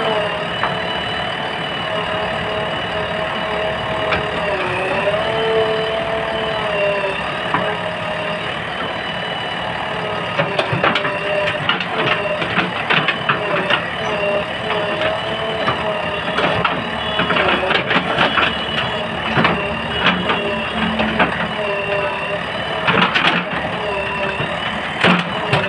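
JCB backhoe loader running, with a steady whine that drifts up and down in pitch as it works. From about ten seconds in, irregular clanks and knocks come over it.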